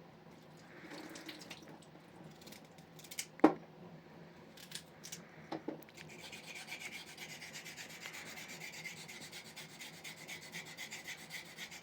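A few scattered clicks and one sharp knock about three and a half seconds in. Then, from about six seconds, a fast, steady scraping.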